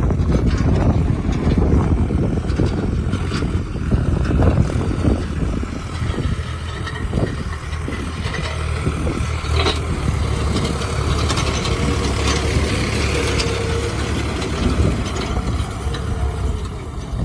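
Yanmar F535 compact tractor's diesel engine running steadily while plowing, with a few short knocks from the machinery.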